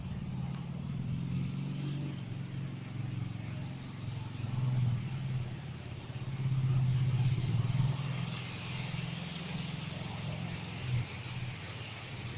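A motor vehicle's engine running steadily, growing louder about five seconds in and again for a stretch past the middle, over a background hiss.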